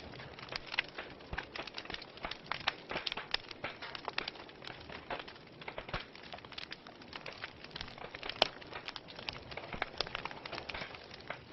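Wood fire burning in a fireplace, crackling and popping irregularly over a soft hiss, with one sharper pop near the end.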